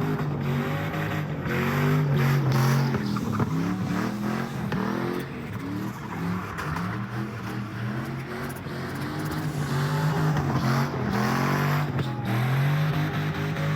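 A car engine revving hard again and again, its pitch sweeping up and down, over a steady deep engine tone.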